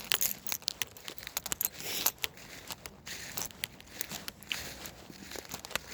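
Irregular crackling and rustling, like footsteps crunching through dry leaves and undergrowth.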